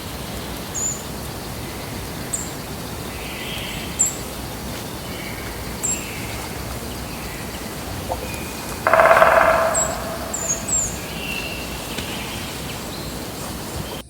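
Forest birds calling over a steady hiss of background noise: short high chirps every second or two, with a few lower calls between them. About nine seconds in, a louder sound lasts about a second.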